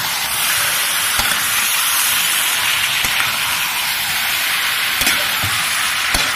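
Raw squirrel pieces sizzling in hot oil in a metal wok while being stirred, with a steady frying hiss and a metal spatula scraping and knocking against the pan a few times.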